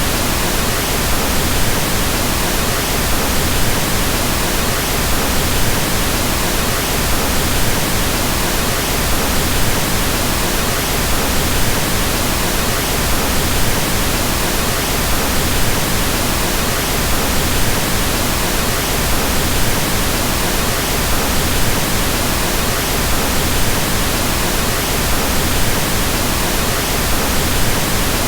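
Pink noise: a steady, even hiss spread across all pitches, with more weight in the low end than white noise. It is generated noise, unchanging throughout.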